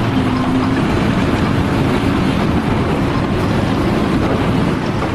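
Machinery running steadily and loudly, with a faint steady hum.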